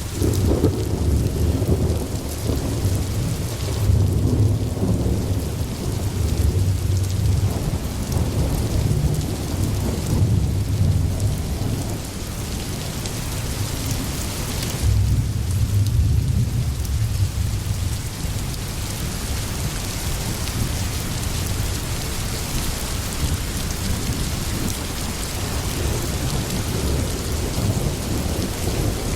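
Steady rain with rolling thunder: a long low rumble through roughly the first twelve seconds and another about fifteen seconds in, then only the rain.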